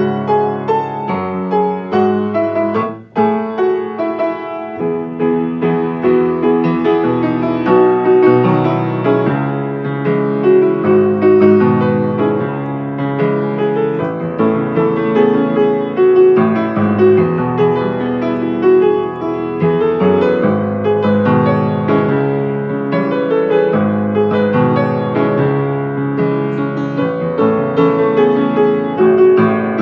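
Solo piano playing an improvised arrangement, with a continuous flow of melody and chords and a momentary break about three seconds in.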